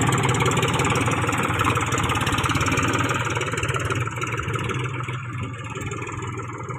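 A John Deere tractor's diesel engine running with a steady firing beat, then getting quieter about four seconds in.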